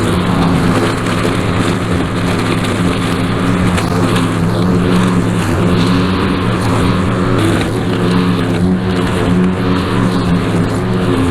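Lawn mower engine running steadily at a constant speed, with its cutting noise.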